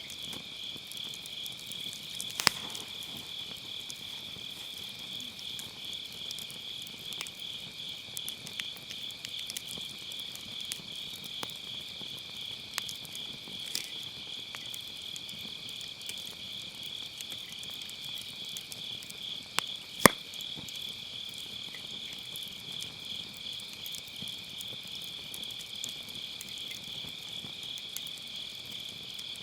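Crickets chirping steadily in a fast, pulsing trill, with a wood campfire crackling underneath: scattered small pops, a sharp pop about two and a half seconds in, and the loudest crack about twenty seconds in.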